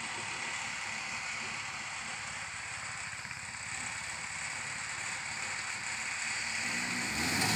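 Lada Niva engine running at low revs, faint under a steady hiss. About seven seconds in its note comes up and grows louder as the vehicle pulls away.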